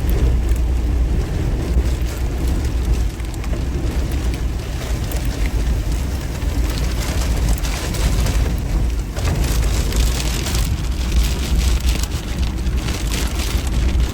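Heavy wind-driven rain pelting a car in a tornado's outer winds, over a strong low rumble of wind buffeting. The hits grow denser about halfway through.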